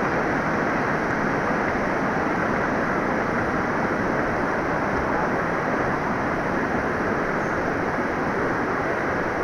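Steady rushing roar of a waterfall, even and unbroken throughout.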